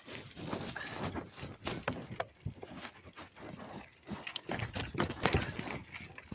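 Mountain bike rolling over a rough forest trail: irregular knocks, rattles and crunches from the tyres and frame over twigs, leaves and roots, with a louder knock about five seconds in. Heard muffled from a phone in the rider's pocket.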